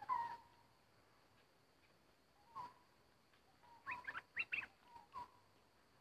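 Bird calls in short phrases: a sharp call at the start, another about two and a half seconds in, then a quick run of rising notes around four seconds in and a last call near the end.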